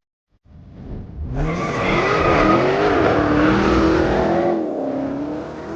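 Car doing a burnout: the engine revs hard, rising in pitch, while the rear tyres spin and squeal. It builds about a second in and eases off near the end.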